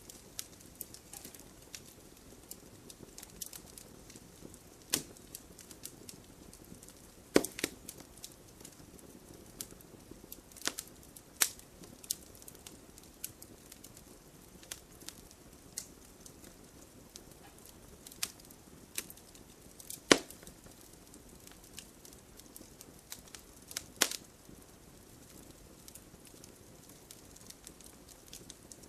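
Wood fire crackling in a fireplace: a soft steady hiss with scattered sharp pops and snaps, a few of them much louder than the rest.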